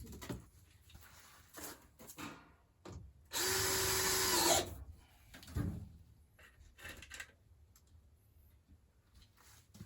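Power drill spinning once for about a second, a little past three seconds in, with a steady motor tone that rises as it finishes, driving a screw. Scattered short knocks and clicks of handling tools and parts around it.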